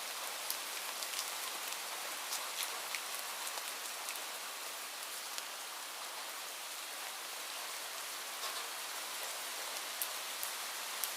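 Steady rain falling, an even hiss with many individual drops ticking sharply on a near surface.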